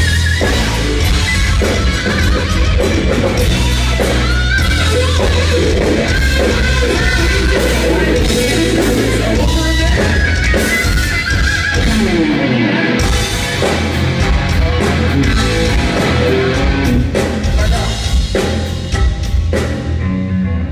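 Live rock band playing loud: drum kit and electric guitar, with a voice singing over them.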